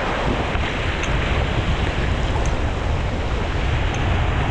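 Rushing river water around a paddled raft, a steady noise, with wind buffeting the microphone.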